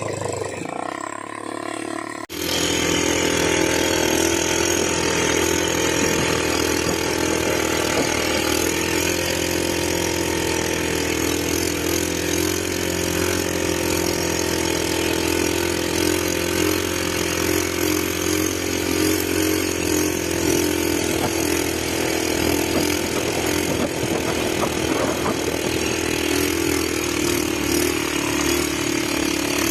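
ATV engine running at a steady pace, a constant drone that cuts in suddenly about two seconds in.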